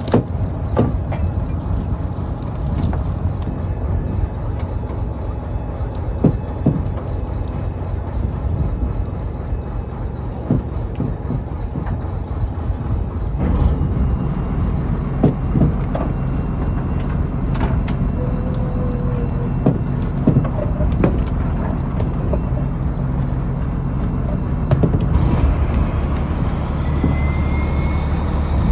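Fishing trawler's engine running steadily, with scattered knocks and clanks. Near the end, a rising whine.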